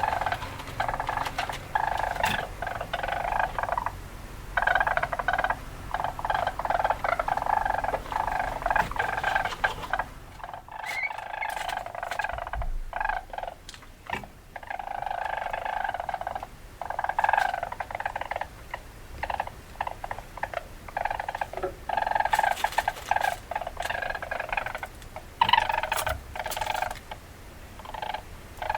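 Weasel chattering calls: repeated runs of rapid, buzzy chatter broken by short pauses, quieter for a few seconds near the middle.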